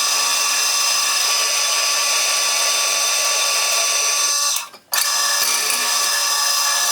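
Electric drill running at a steady high-pitched whine while drilling holes through steel flat stock. It stops briefly about four and a half seconds in, then starts again.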